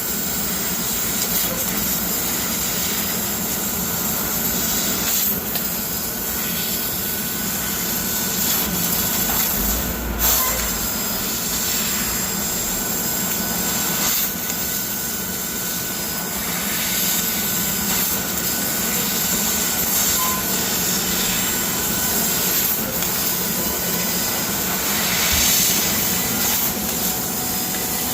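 CNC laser cutting machine running while cutting steel: a steady hiss over a low hum, swelling slightly now and then.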